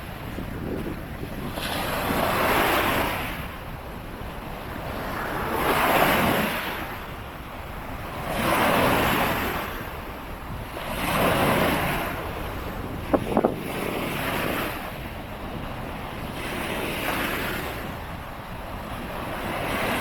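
Waves breaking on the shore, a fresh surge swelling and fading about every three seconds, with wind buffeting the microphone. Two or three sharp clicks about 13 seconds in.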